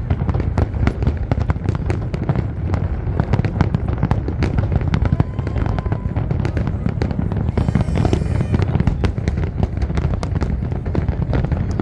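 Large fireworks display going off in a dense barrage: rapid, overlapping sharp bangs over a continuous deep rumble of booms, with a short hiss about eight seconds in.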